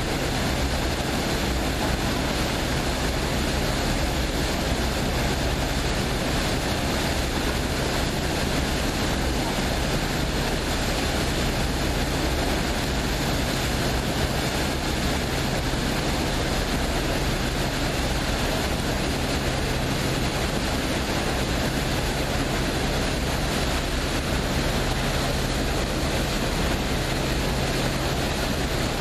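A passenger boat's engine running steadily as a low, even hum under a constant rushing noise, with no change throughout.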